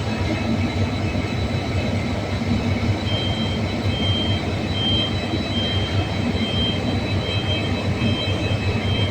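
KTMB diesel locomotives running with a steady deep engine drone. A faint high whine sits over it, and from about three seconds in a second high tone comes and goes in short pulses.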